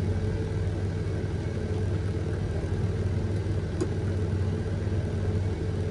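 Forwarder's diesel engine running at a steady drone, with no change in pitch or load.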